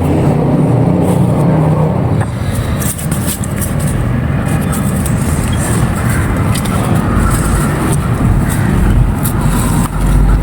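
Dry, dusty clay crumbling and crackling, with many small crisp crackles over a heavy low rumble.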